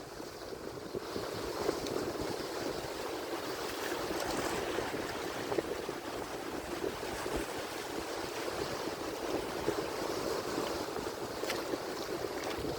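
Ocean surf: a steady wash of breaking waves, with no single crash standing out.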